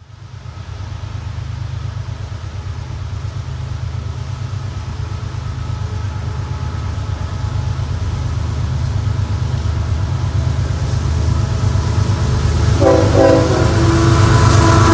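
A train approaching, its low rumble building steadily louder. About 13 seconds in, the locomotive's air horn sounds, several tones at once, held steady.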